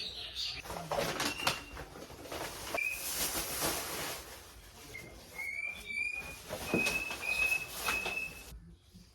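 Rustling and clatter of things being handled, then a pet bird gives a quick series of about six short, high chirps, each rising slightly, in the second half.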